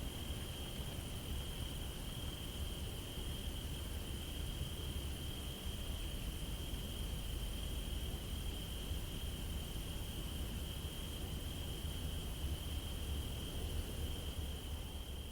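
A steady, unbroken high chirring, like a chorus of crickets, over a low rumble.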